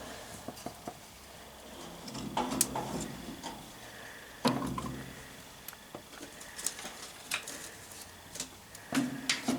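Irregular clicks, taps and knocks of small objects being handled, with a few louder knocks about halfway through and near the end.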